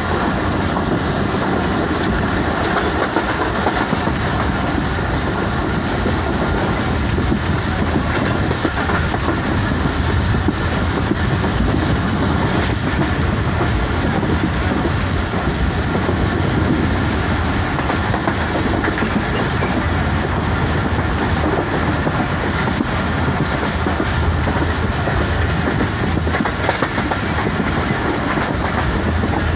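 Rehman Baba Express passenger train running steadily along the track, heard from inside a carriage: a constant rumble of wheels on the rails.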